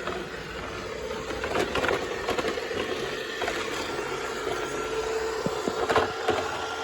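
A steady motor hum over a noisy hiss, with scattered light clicks and knocks.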